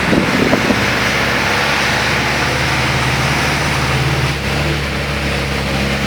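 Car engine running with tyre hiss on a wet road, a steady drone and hiss, with a few brief knocks in the first second.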